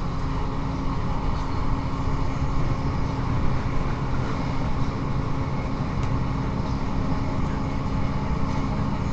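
Cabin noise inside a Class 158 diesel multiple unit running at speed: a steady low drone from its underfloor diesel engine, mixed with wheel and rail noise.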